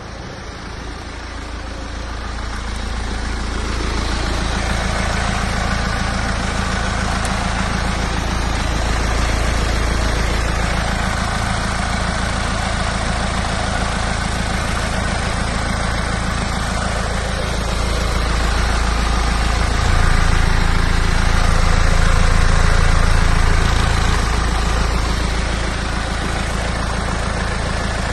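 BMW N47D20C 2.0-litre four-cylinder diesel engine of an X1 E84 running at idle in an engine test. About twenty seconds in the revs rise briefly and settle back to idle some four seconds later.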